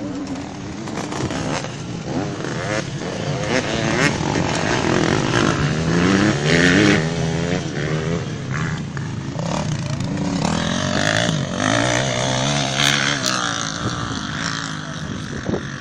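Several motocross bike engines revving, their pitch rising and falling as the throttles open and close, with two or more bikes overlapping at times.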